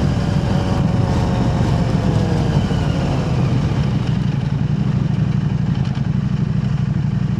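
KTM 890 Adventure R's parallel-twin engine running steadily through an Arrow Race-Tech aftermarket exhaust, an even, unbroken exhaust note with no revving.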